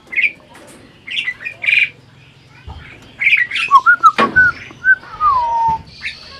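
Asian pied starling (jalak suren) calling: short scratchy chirps and squawks, then from about halfway a busier run of chirps and short whistled notes, ending in a long whistle that falls in pitch.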